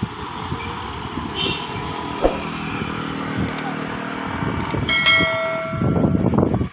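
Vehicle engine running under load on a steep hill climb, with a horn sounding for about a second, around five seconds in.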